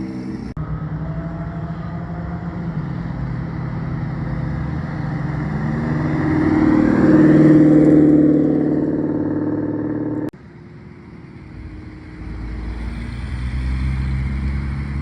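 Car engines accelerating and driving past, the loudest pass rising and then falling about seven to eight seconds in. The sound cuts off abruptly about half a second in and again about ten seconds in; after the second cut a quieter engine builds up again.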